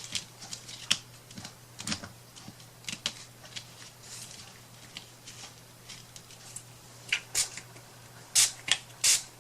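Scattered light clicks, taps and rustles of small craft materials being handled, with a few short, loud hissing bursts near the end.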